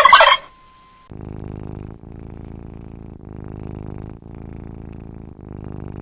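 The last fraction of a loud turkey gobble cuts off at the start. After a short pause, a cat purrs in steady, even cycles of about a second each, one breath in or out per cycle.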